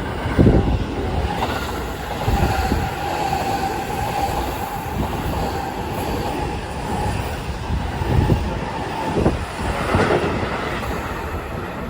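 Seibu 6000 series electric train running through the station, its wheels knocking over rail joints in clusters near the start and again near the end. A steady high tone sounds through the middle of the passage.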